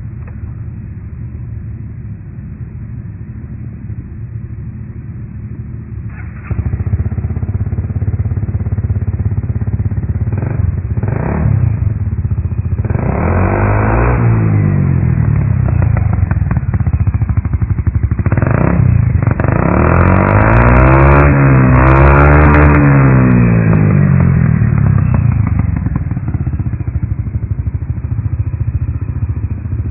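Honda Faze scooter's 250 cc single-cylinder engine, breathing through a Moriwaki aftermarket muffler, idling, then revved in a few short blips and a longer double rev before settling back to idle. The idle gets abruptly louder about six seconds in.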